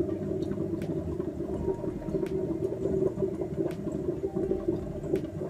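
Sunbeam C30A vacuum coffee maker brewing: water heating in the lower pot, bubbling steadily as vapour pressure pushes it up into the top bowl with the coffee grounds.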